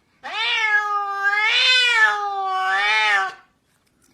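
A cat's single long, drawn-out meow, lasting about three seconds, that wavers up and down in pitch and swells twice before stopping.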